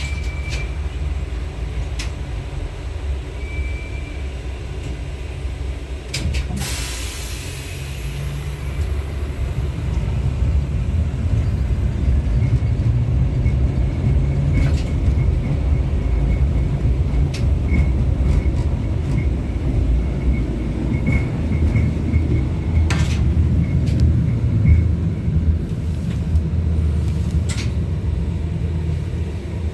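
LVS-86K tram running between stops, heard from inside the passenger saloon: a steady low rumble of motors and wheels on the rails, growing louder after about ten seconds. A brief hiss comes about six seconds in, and scattered clicks and one sharp clack come later on.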